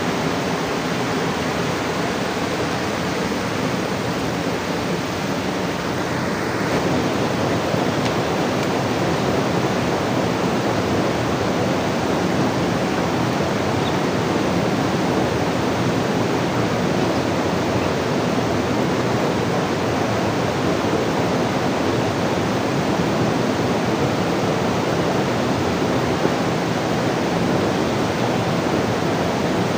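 Steady rushing of water, an even noise without breaks, a little louder from about six and a half seconds in.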